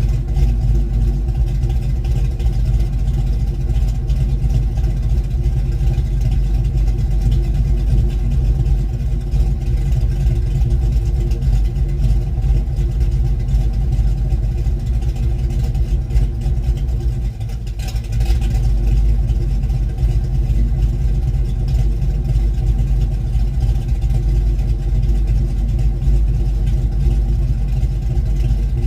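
1972 Ford Mustang Mach 1's V8 running through a single 3-inch exhaust with a Black Widow Venom race muffler, its note shaped by a new Crane 2040 cam. The tone stays steady, with a brief drop in level about seventeen seconds in before it picks back up.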